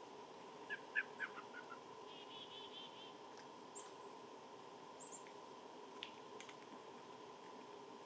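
Wild birds calling faintly. About a second in comes a quick run of six or so falling notes, then a short fast series of higher notes, and a few thin high chips later on.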